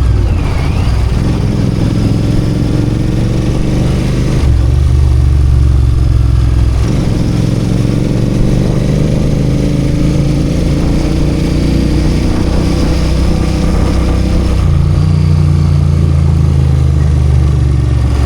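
Royal Enfield Continental GT 650's parallel-twin engine running under way, its pitch shifting a few times and rising slowly through the middle as it pulls through the revs.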